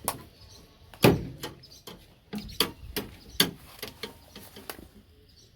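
A series of sharp knocks and clicks, irregular, the loudest about a second in, then a quick run of them before they die away near the end.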